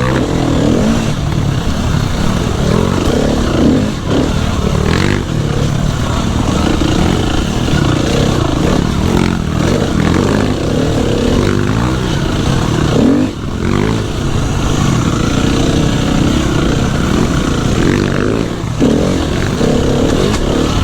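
Dirt bike engine running under load while being ridden, its note rising and falling constantly with the throttle, briefly dropping away a few times.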